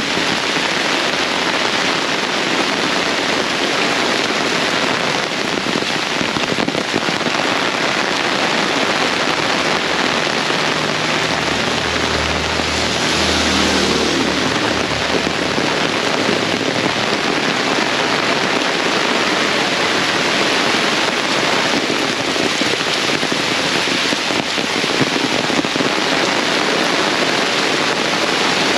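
Heavy tropical rain pouring down and splashing on surfaces and puddles, a dense steady hiss. A low rumble swells and fades about midway through.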